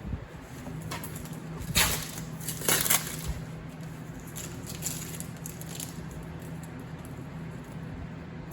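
Handling noise: two short rustling, crinkling bursts about two and three seconds in, over a steady low hum.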